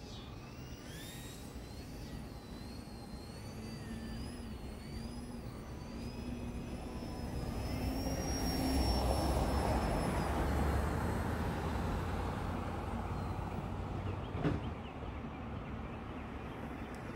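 Electric motor and propeller of an E-flite Eratix flat-foam RC plane in flight, whining at a pitch that wavers up and down with the throttle. It grows louder as the plane passes close, about halfway through, then fades. A single sharp click comes near the end.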